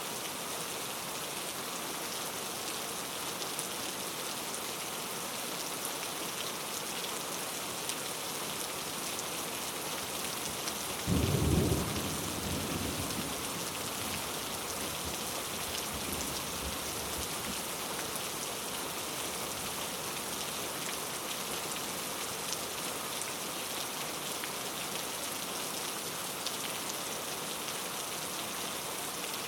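Steady rain falling, with a sudden thunderclap about eleven seconds in that rumbles away over a couple of seconds.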